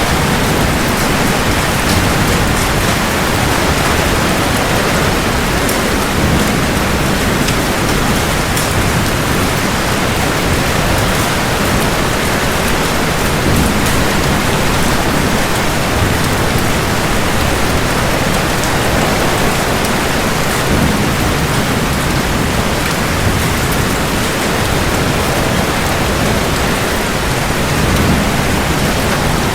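Heavy, steady rain falling hard, with low rumbles of thunder swelling and fading underneath.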